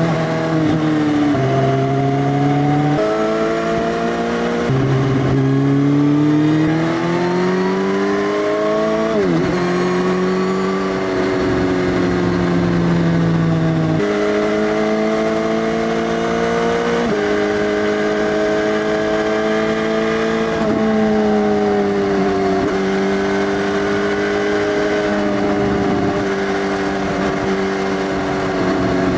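2018 Suzuki GSX-S1000's inline-four engine through an Arrow Race Tech full exhaust system with the dB killer removed, under way. Its pitch climbs in several stretches with short drops between them, as at gear changes, then holds fairly steady with small dips.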